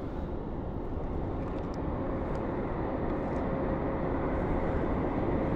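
Steady low rumble of distant engine noise, slowly growing louder, with a faint steady hum through the middle of it.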